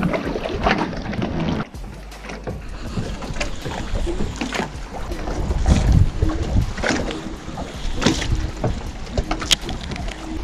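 Wind buffeting the microphone over water lapping against a boat tied at a dock, with scattered knocks and clicks. The noise drops abruptly about two seconds in.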